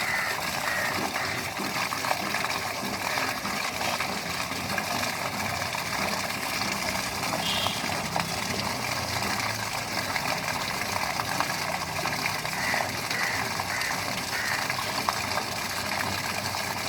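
Steady hiss of running rainwater, even and unbroken, with a few faint short chirps on top.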